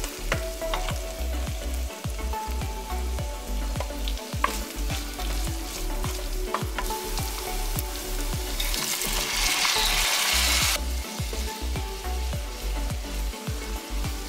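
Minced meat, onion and carrot sizzling in a pot, with a spoon clicking against the pot as it is stirred. About nine seconds in, the sizzle grows louder for about two seconds as lentils and potato chunks are tipped into the hot pot.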